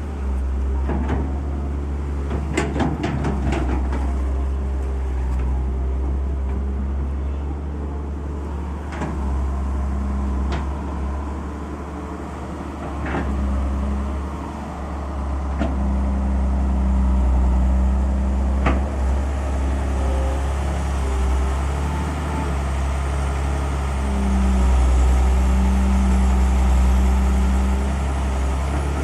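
Excavator's diesel engine running heavily, its level and pitch swelling and easing as it works. Sharp metal clanks come in a cluster early on, then single knocks every few seconds.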